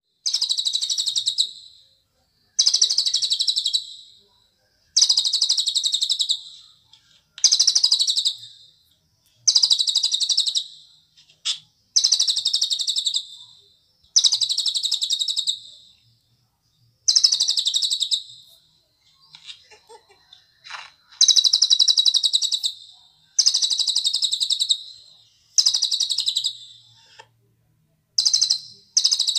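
A cililin bird singing a series of rapid, high-pitched trilled phrases. Each lasts about one and a half to two seconds, starts loud and trails off, and repeats after a short pause.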